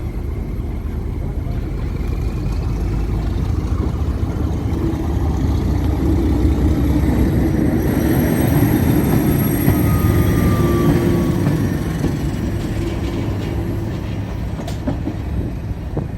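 Heritage diesel train passing close by, its engine note building to a peak about halfway through and then fading. A faint high wheel squeal sits above the engine.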